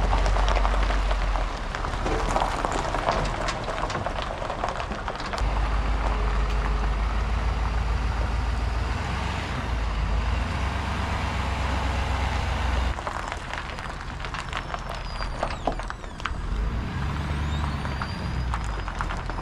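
Loaded truck driving on the road: a steady engine and road rumble that eases off about two-thirds of the way through.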